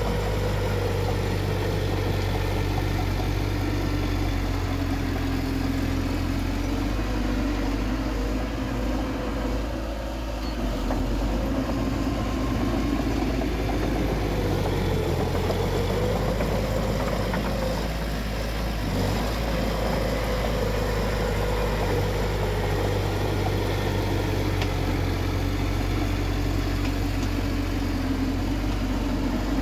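Bulldozer's diesel engine running steadily under work, its pitch wavering up and down as the load changes, with brief slight easings about ten seconds in and again near eighteen seconds.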